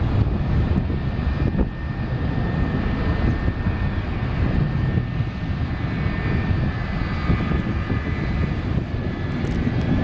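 McDonnell Douglas MD-83's rear-mounted Pratt & Whitney JT8D low-bypass turbofans at takeoff thrust: a loud, steady jet roar heavy in the low end, with a faint high whine over it.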